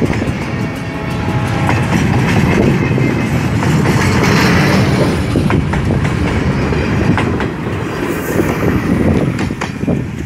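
Freight train's container flatcars rolling past close by: a steady rumble of steel wheels on rail with repeated clicks over the rail joints, beginning to fade as the last car goes by near the end.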